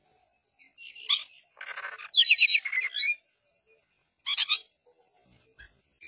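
Birds calling in harsh, squawking bursts: a short call about a second in, a chattering run of rapid calls from about one and a half to three seconds in, and another short burst a little after four seconds.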